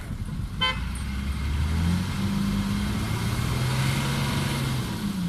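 Heavy diesel engine of a dump truck or bulldozer revving up and holding high, as the machines strain to free a dump truck stuck in mud, then easing off near the end. A short high beep sounds about half a second in.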